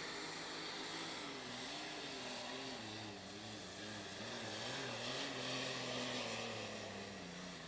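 Light super stock pulling tractor's engine running hard under load down the track, its pitch wavering up and down and a thin high whine above it. The engine can't hold its revs up through the pull.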